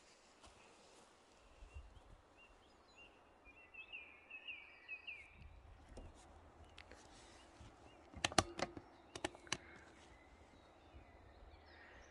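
Faint outdoor garden ambience with a small bird singing a short run of chirping notes about four seconds in, and again briefly near the end. Around eight to nine and a half seconds in, a handful of sharp clicks or knocks, the loudest sounds here.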